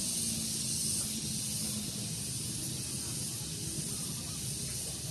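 Steady high-pitched outdoor hiss with no clear calls in it, and a faint low hum fading out about a second in.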